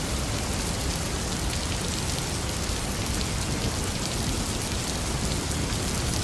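Steady, heavy rain falling: an even, unbroken hiss sprinkled with many fine drop ticks.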